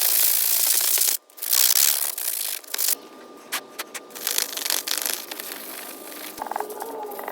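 Rusty steel axe head being scraped by hand with an abrasive, a loud scratchy rasping. It breaks off abruptly about a second in, resumes, then turns much quieter about three seconds in.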